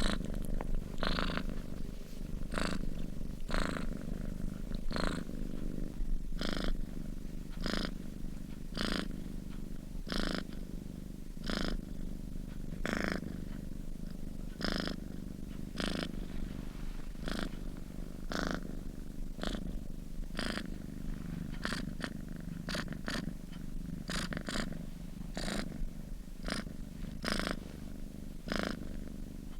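A sleeping domestic cat purring steadily, in an even rhythm of about one breath-pulse a second.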